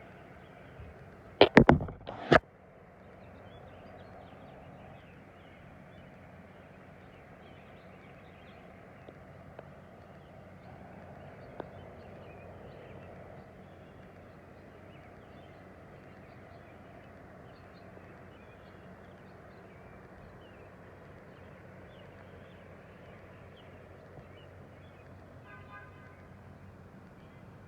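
Garden ambience after rain: a steady faint hiss with scattered faint bird chirps. A quick cluster of loud knocks comes about two seconds in.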